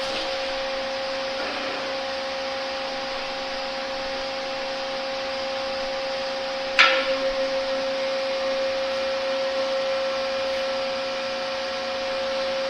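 Hydraulic test pump running steadily with a constant whining drone while a hydraulic cylinder is pressure-tested. A single sharp clank, with a short ring, about seven seconds in.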